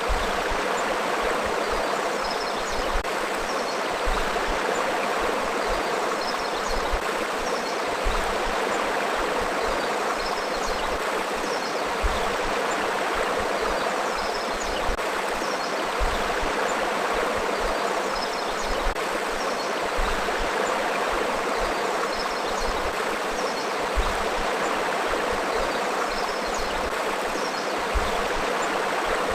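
River flowing steadily: a continuous rush of moving water, with brief low thumps every few seconds.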